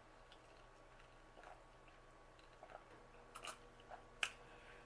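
Faint close-up eating sounds: chewing with a few soft mouth clicks and smacks, mostly in the second half.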